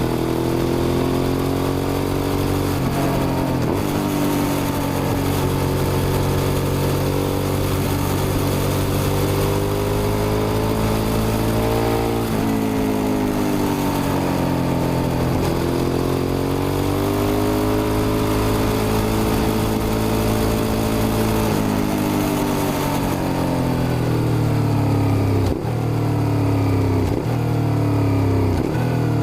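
Suzuki SV650's 90-degree V-twin engine pulling through the gears on a ride, its note rising and falling as the throttle is opened and eased off, with brief breaks at the gear changes. Several quick shifts come near the end as the revs drop.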